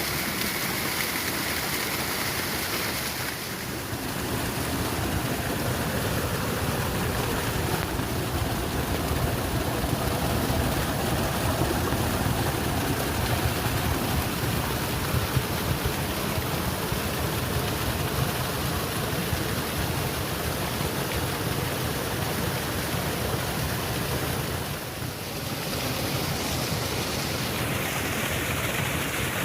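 Steady rushing water from a waterfall, dipping briefly twice.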